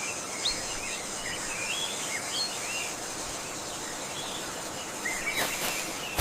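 Forest ambience: birds calling in short chirping phrases over a steady high-pitched drone of insects.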